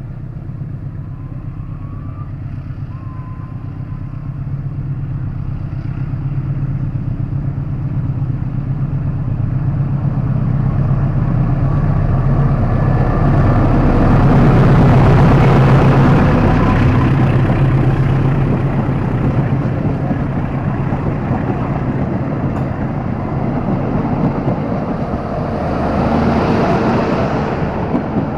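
Diesel-electric locomotive hauling a passenger train away from a station. Its deep engine hum and the rail rumble build to their loudest about halfway through, ease off, then swell again near the end.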